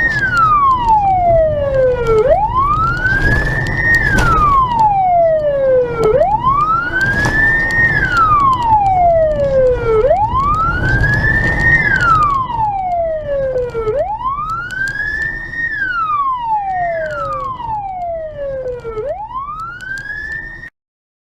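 Emergency vehicle siren on a slow wail, rising over about two seconds and falling again, with a rumble of traffic beneath. It repeats about five times and cuts off abruptly near the end.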